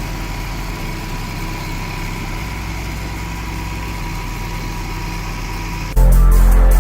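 Mazda Miata's freshly swapped-in BP four-cylinder engine idling steadily and evenly, running well on its first runs after the swap. About six seconds in, loud electronic music cuts in over it.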